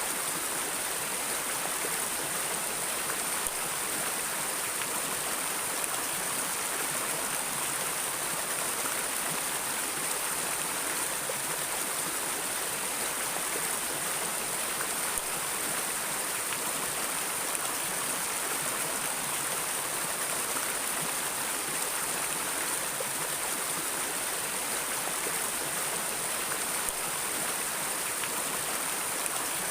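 Stream of water flowing and rushing with a steady, even hiss.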